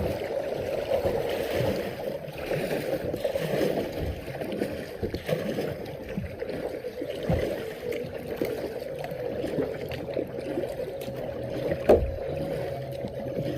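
Kayak paddling on a shallow creek: water splashing and gurgling around the paddle and hull, with small knocks and one sharp knock near the end.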